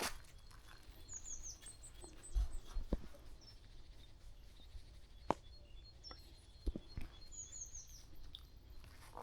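A small songbird singing two short phrases of quick, high, falling chirps, about a second in and again near the end. A few faint scattered clicks and knocks sound between them.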